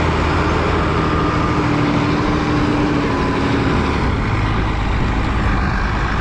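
Strong wind buffeting the microphone, with a steady engine hum underneath.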